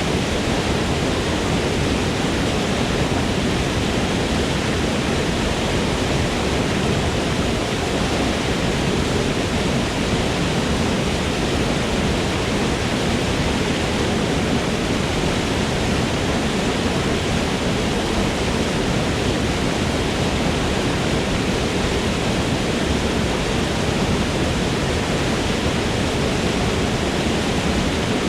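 Forest waterfall: falling water making a steady, even roar with no breaks or changes.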